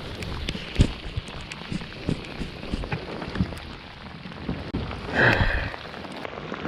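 Heavy rain falling, with many sharp drop hits ticking close to the microphone. A brief, louder sound stands out about five seconds in.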